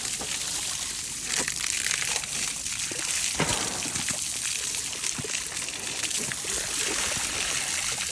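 Water running or splashing as a steady hiss, with scattered short knocks and splashes.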